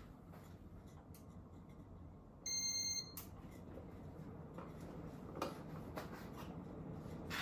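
Casablanca Zephyr ceiling fan running at speed 6, a low steady hum and whoosh of the motor and moving air. About two and a half seconds in, a single high electronic beep lasting about half a second.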